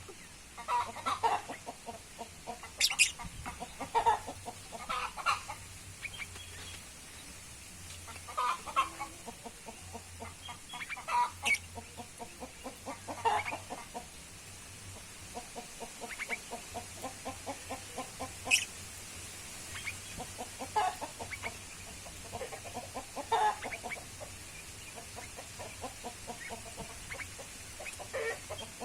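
Birds calling: runs of short, quickly repeated low calls throughout, with a few sharp, high-pitched calls in between.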